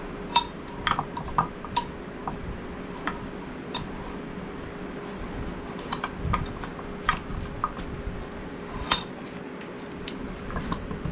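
Irregular metallic clinks and light knocks as the steel parts of a bench vise are handled and fitted back together, with a few sharper strikes among them.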